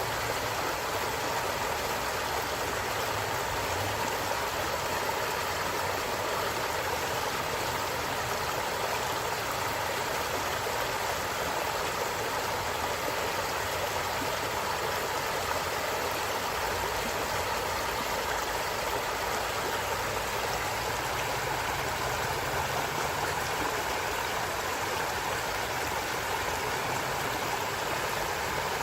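Forest stream flowing steadily over rocks, an even rushing and babbling of water that holds the same level throughout.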